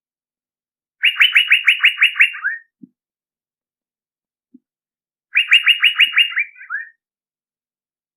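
Male Asian fairy-bluebird (cucak biru) lure call: twice, a rapid run of about ten evenly repeated notes, each run about a second and a half long and ending in a few lower, falling notes. The two runs start about a second in and about five seconds in.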